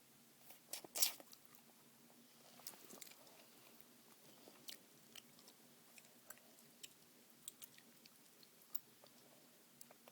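Close-up gum chewing with small wet clicks, and a loud cluster of sharp snaps about a second in from trying to snap the gum. The gum is very soft, which makes it hard to snap.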